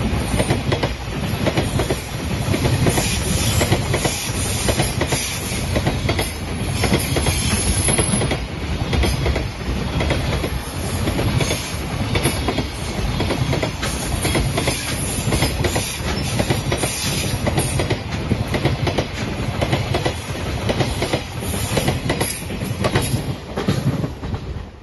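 Long JR Freight container train passing close by, the wheels of its container flat wagons rumbling and clattering continuously over the rails.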